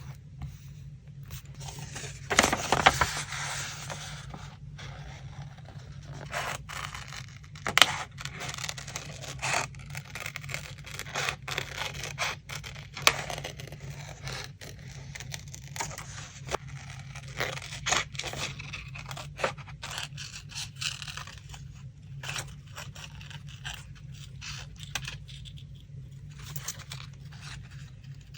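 Paper being handled for a collage: irregular scraping and tearing of paper with scattered sharp clicks and taps, the loudest scrape about three seconds in, over a low steady hum.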